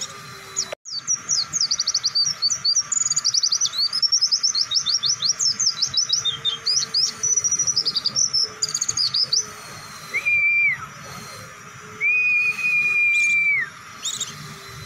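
White-eye (pleci) singing a long, fast run of high twittering chirps, then two long, level whistles near the end.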